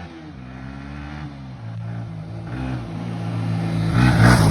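Motorcycle engine, plausibly the Bajaj Pulsar NS200's single-cylinder, accelerating. Its pitch dips at a gear change, then it grows steadily louder, with a rush of wind noise near the end.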